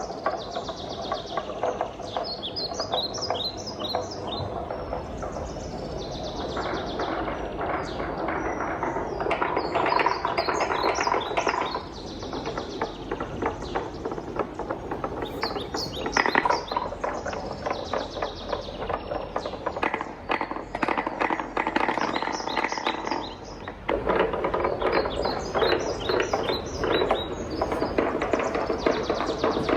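Wooden balls rolling and clacking down a wooden marble run: a dense, continuous clatter of small knocks that swells and eases as the balls pass, with a brief lull about twelve seconds in and another just before the last six seconds. Short bursts of high bird-like chirping come through at times.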